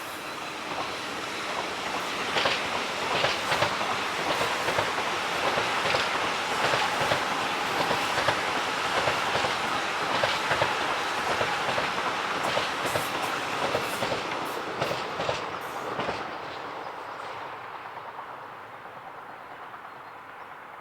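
A train passing, its wheels clicking rhythmically over rail joints and points. It builds over the first couple of seconds, runs loud until about sixteen seconds in, then fades away.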